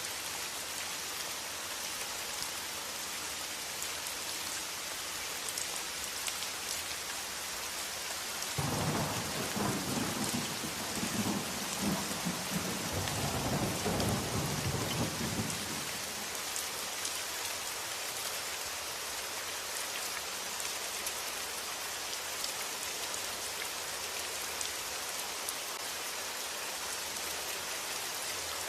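Steady rain, with a roll of thunder that starts suddenly about a third of the way in and rumbles for about seven seconds before fading back into the rain.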